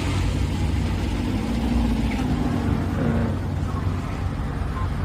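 City street traffic: car engines running steadily with a low hum.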